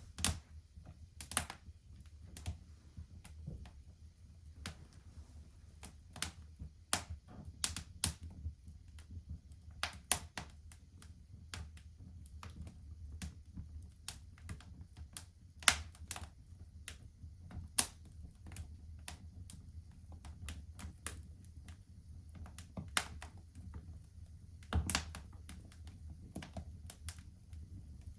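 Wood fire crackling in a fireplace: irregular sharp pops and snaps, a few much louder than the rest, over a steady low background.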